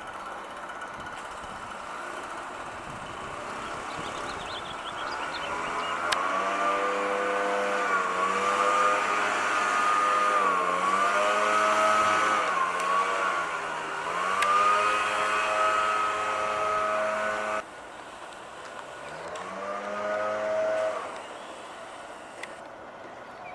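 Motor vehicle engine running close by, building up, its pitch dipping and climbing back several times as the revs change. It stops abruptly a few seconds before the end, and a shorter burst of the same engine follows.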